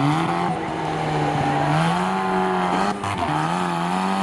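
Truck engine running hard on the race course, its pitch rising and falling as the driver gets off and back on the throttle, with a brief drop about three seconds in.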